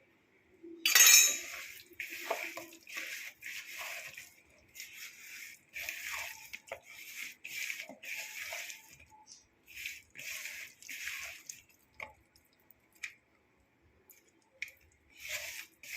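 Paneer cubes and chopped vegetables being mixed by hand into a wet spice marinade in a bowl: a louder burst about a second in, then a run of short wet strokes that thin out to a few clicks after about eleven seconds and pick up again near the end.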